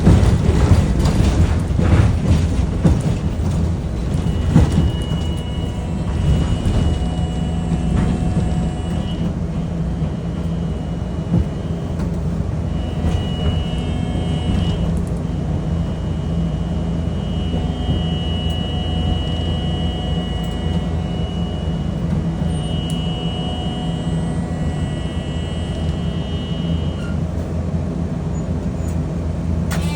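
Hiroden streetcar running on its rails, with clattering knocks over the track in the first few seconds. Then a steady low rumble follows, with thin higher whining tones that come and go.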